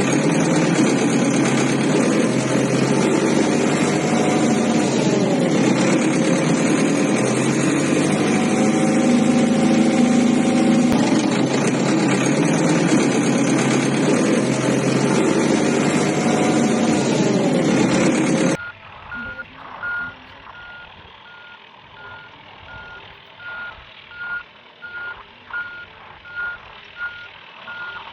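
Heavy vehicle engine running loud, its pitch sliding down and back up a few times, then cutting off suddenly about two-thirds of the way in. A backup alarm follows, beeping steadily about one and a half times a second over a faint low rumble.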